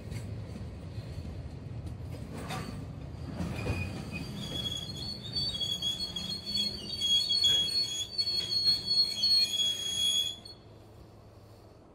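Container wagons of a freight train rolling past, their wheels rumbling on the rails. A high, steady squeal from the wheels sets in about four seconds in and grows louder, then everything cuts off suddenly near the end.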